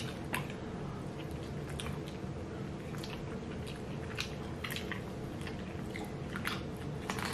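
Close-up chewing and mouth sounds of people eating dumplings and Chinese greens, with scattered light clicks and smacks.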